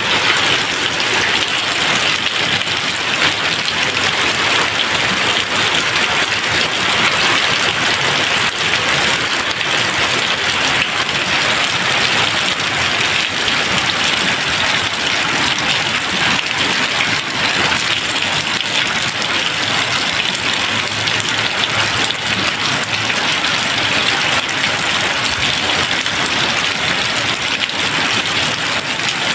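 Steady rain falling, an even hiss of dense drops that keeps the same level without pauses or thunder.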